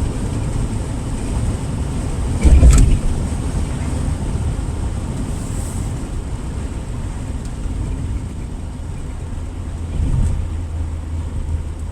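Steady low rumble of a car's engine and tyres on the road, heard from inside the cabin while driving. There is a brief, louder thump about two and a half seconds in.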